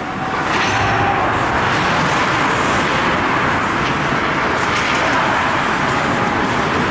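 Steady, loud noise in an ice hockey rink during play, rising about half a second in and then holding, with a few faint knocks.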